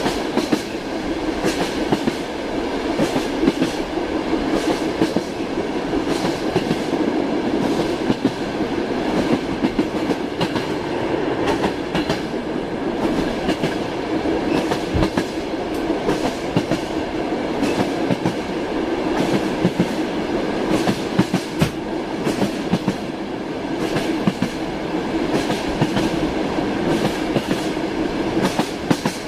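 Train wheels clacking over rail joints again and again, over the steady rumble of a moving train.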